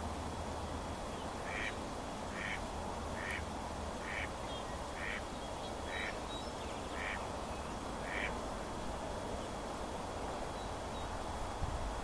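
A bird giving a series of eight short calls, evenly spaced a little under a second apart, over steady background noise.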